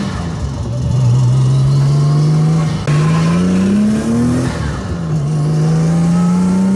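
Nissan 240SX's RB-series inline-six engine pulling under acceleration. Its note climbs, drops abruptly about three seconds in and again about a second and a half later, then holds fairly steady.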